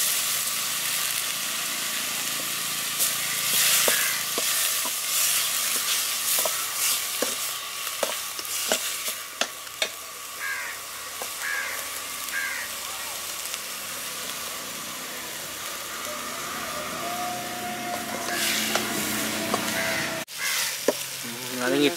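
Chopped onions, curry leaves and tomatoes sizzling in hot oil in an aluminium pot, with a steel ladle stirring and clinking against the pot. A bird calls three times about halfway through.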